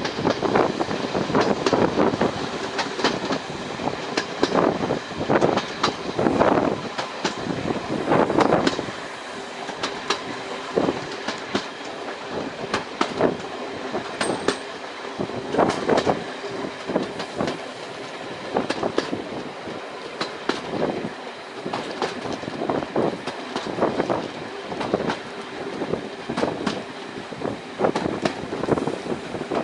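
Train running along the track, its wheels clattering over the rail joints in uneven knocks.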